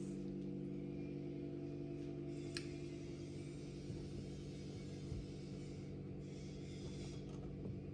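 A steady low hum made of several held tones, with a faint click about two and a half seconds in.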